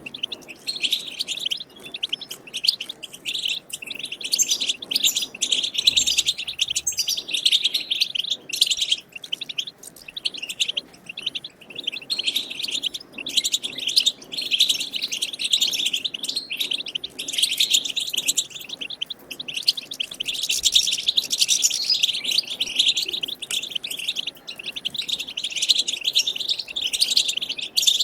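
European goldfinch twittering: a dense, rapid, unbroken chatter of high notes with a few short pauses.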